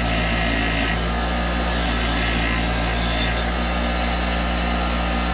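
Wire wheel running steadily, brushing old thread-sealing tape off the threads of a pipe fitting taken from a water pump. A constant motor hum sits under a scratchy wire-on-metal noise that shifts as the part is pressed against the wheel.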